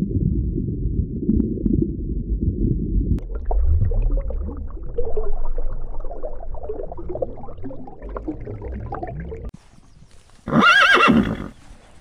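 A low underwater rumble, then several seconds of churning, splashing water; near the end a horse whinnies once, a loud call under a second long that rises and falls in pitch.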